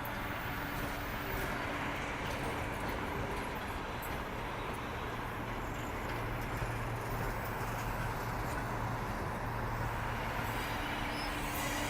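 Train departing at low speed: a steady low drone with the continuous rumble of its cars rolling along the track.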